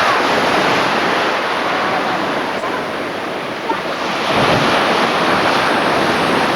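Sea surf washing steadily, with wind buffeting the microphone; it grows a little louder about four seconds in.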